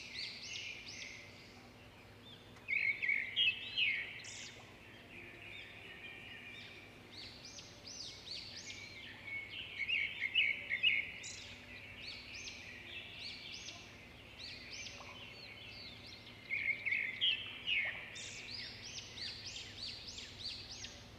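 Several birds chirping and calling, with quick runs of bright, bending notes that come in louder clusters about three seconds in, around ten seconds, and again near the end.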